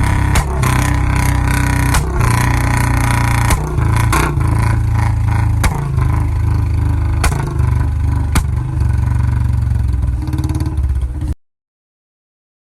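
Motorcycle engine being revved, with sharp exhaust pops (backfire crackles) every second or two over the low engine note. The sound cuts off suddenly near the end.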